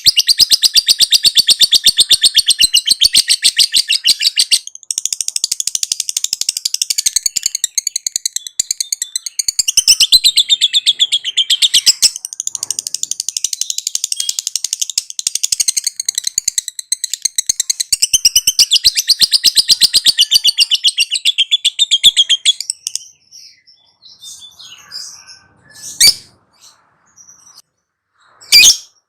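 Lovebird's ngekek: a long, fast chattering trill of rapid high chirps, broken briefly twice, which stops about 23 seconds in. After that come only a few scattered sharp chirps.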